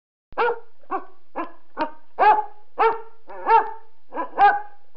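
A dog barking, about nine short barks roughly half a second apart.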